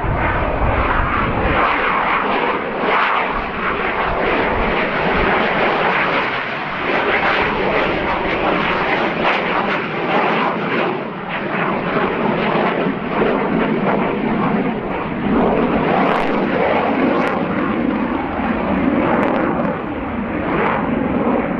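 Dassault Rafale fighter's twin Snecma M88 turbofans running through a slow display pass: a steady, loud rush of jet noise with no clear pitch.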